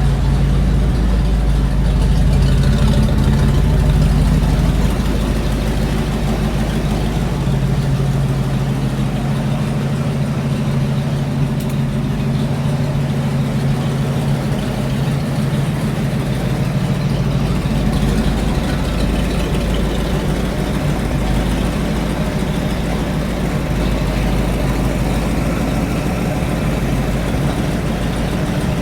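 Custom-built car's engine idling steadily on its first run, warmed up to about 210 degrees of exhaust heat, a little louder for the first few seconds.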